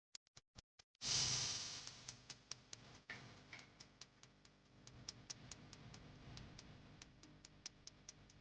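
Faint ticking, about four ticks a second like a clock, as part of a background music bed. About a second in a whoosh swells up and fades, leaving a faint hiss under the ticks.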